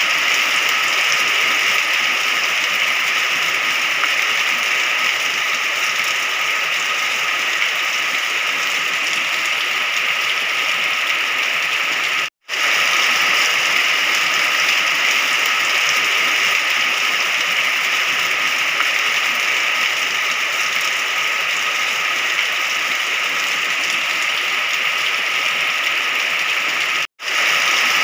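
Steady heavy rain, an even hiss of falling water. It cuts out to silence for a split second twice, about twelve seconds in and again near the end.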